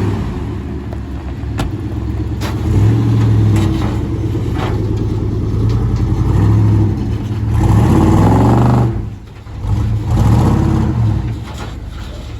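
A 1994 OBS pickup's 350 V8 running, its pitch rising and falling several times as the engine is revved, with a longer climb and a sudden drop about nine seconds in.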